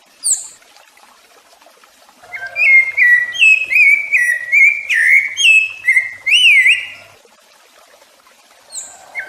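Rufous-bellied thrush (sabiá-laranjeira) singing: a brief high note just after the start, then from about two seconds in a fast run of clear whistled notes, each gliding up or down, for about five seconds, followed by a pause and another short high note near the end.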